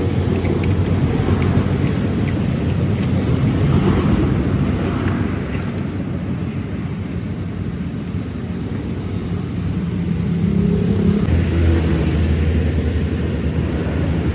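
An engine running steadily with a low hum. Its pitch and level shift about two-thirds of the way through.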